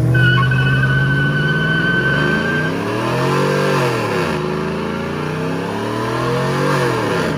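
A car engine is revved hard twice. The revs climb to a peak about three and a half seconds in, drop away, then climb again and fall off near the end. A steady high whistle sounds over the first couple of seconds.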